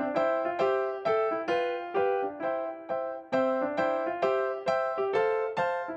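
Background music: a piano or electric piano playing a simple, evenly paced melody of struck notes, about two or three a second, each note fading after it is struck.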